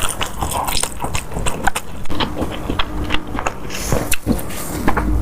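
Close-miked eating: a person chewing and biting food, with many short, sharp, wet mouth clicks.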